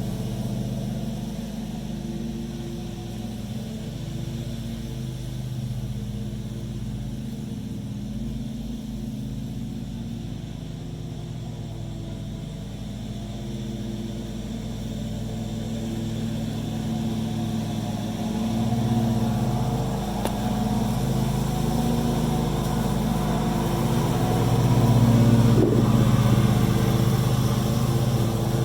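A steady engine hum with a low droning pitch, growing louder about two-thirds of the way through.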